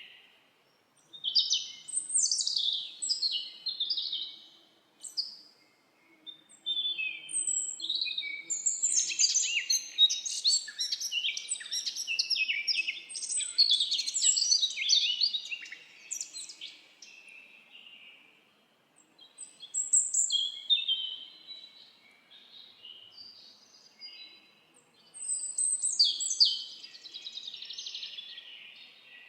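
Songbirds singing: bursts of quick, high chirps and trills, with phrases overlapping through the busiest stretch. The bursts are broken by short pauses. It is quieter for a few seconds past the middle, then another burst comes near the end.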